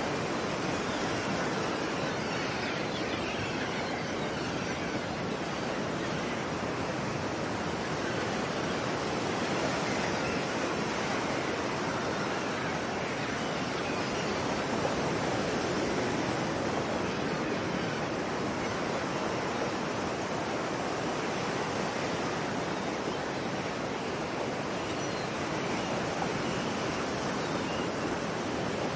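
Ocean surf washing in a steady, unbroken rush. No gull calls stand out.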